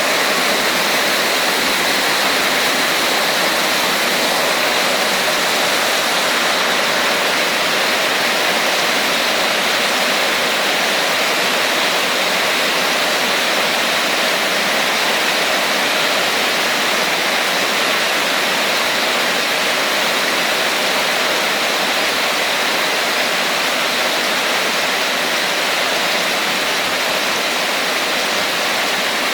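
Steady heavy rain, a dense even hiss with no individual drops or pauses standing out.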